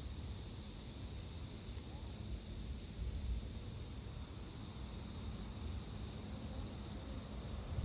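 Japanese bell crickets (suzumushi) singing in a steady, unbroken high ringing chorus, over a low rumble of background noise.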